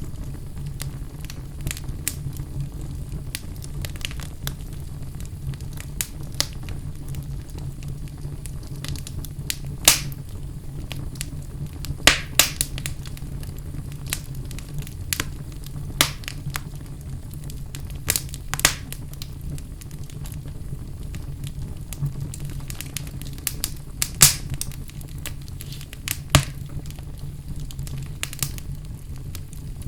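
Wood fire burning in a fireplace: a steady low rumble of the flames with irregular crackles and sharp pops from the burning logs.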